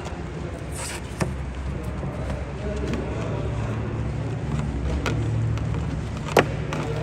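A motor running with a steady low rumble, broken by two sharp knocks, one about a second in and one near the end.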